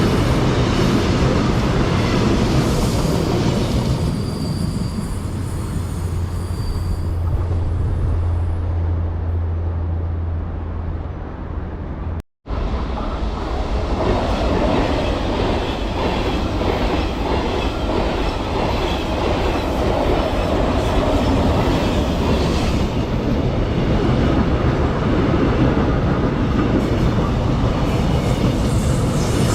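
Trains running past on the rails: a continuous rolling rumble of wheels on track with some clatter, and a low steady hum through the first part. The sound drops out briefly about twelve seconds in, then a train is heard running past again.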